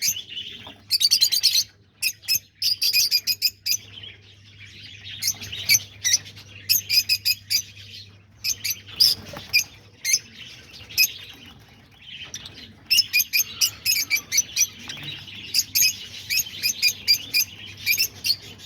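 A flock of peach-faced lovebirds chirping, with clusters of rapid, shrill chirps that overlap one another throughout and only brief lulls.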